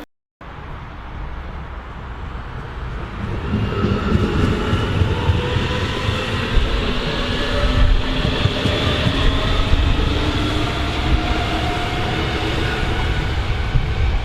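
Train passing, rising over the first few seconds to a steady rumble with a whine of several steady tones above it.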